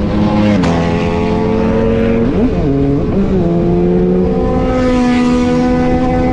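Motorcycle engine running under way, its note dropping sharply about half a second in and dipping and recovering again around two and a half seconds in, then holding steady.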